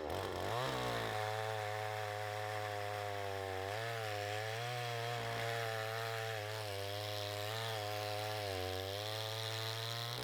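Chainsaw revving up and then running at high speed under load, its pitch wavering as it cuts through wood, until it stops near the end.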